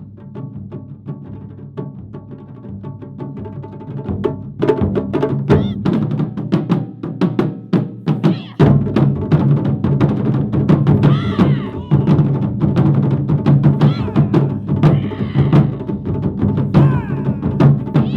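Japanese taiko drum ensemble playing a fast, dense rhythm. It starts softer, swells about four seconds in, and gets louder again about halfway through.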